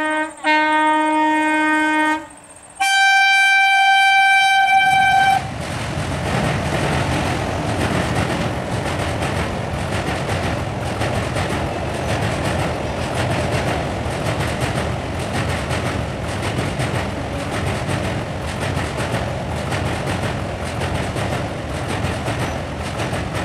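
WAP-4 electric locomotive horn sounding two short low blasts, then a higher-pitched blast of about two and a half seconds. From about five seconds in, ICF passenger coaches run over a steel truss bridge with a steady, loud rolling noise of wheels on rail.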